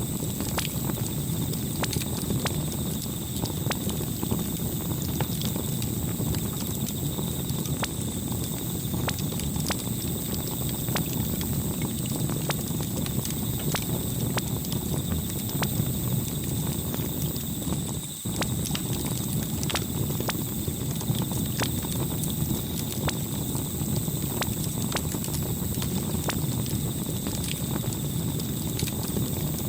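Campfire crackling: irregular sharp snaps and pops over a low steady rumble of burning wood. The sound dips briefly about two-thirds of the way through.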